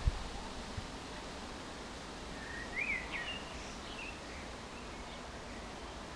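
Steady low outdoor background noise, with a small bird giving a few quick chirps about three seconds in.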